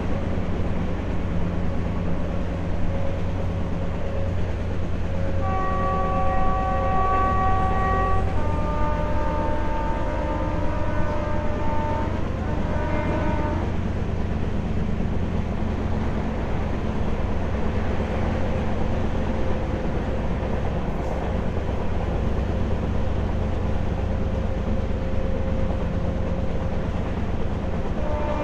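Moving passenger train heard from an open coach doorway: a steady rumble of the wheels on the rails. The train horn sounds a few times between about five and fourteen seconds in, its pitch changing from one blast to the next.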